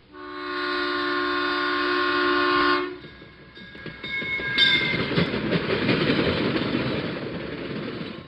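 Locomotive air horn sounding one steady chord for about three seconds, then cutting off. A train's rolling rumble and clatter follows, with thin high squealing tones about halfway through.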